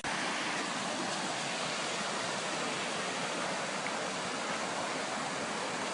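Floodwater rushing: a steady, even rush of water with no breaks.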